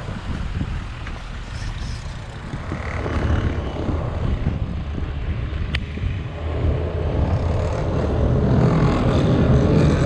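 Vehicle engine running steadily, with a sharp click a little over halfway through; the engine grows louder in the last few seconds.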